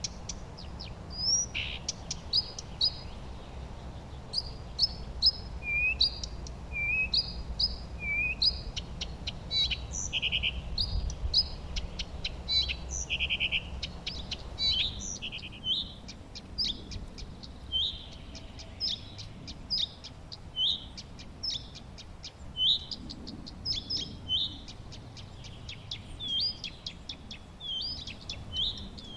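Songbirds chirping and singing: a steady stream of short, high, repeated chirps, with a few lower whistled notes and a couple of quick trills, over a faint low background hum.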